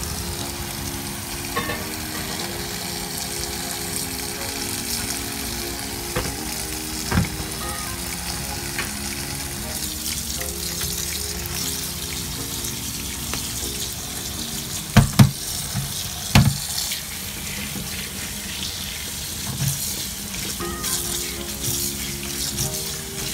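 Tap water running steadily onto cooked spaghetti in a plastic colander in the sink, the pasta being rinsed. A few sharp knocks come about two thirds of the way through.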